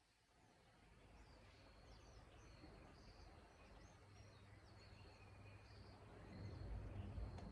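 Faint outdoor ambience: birds chirping repeatedly, over a low rumble that grows louder near the end.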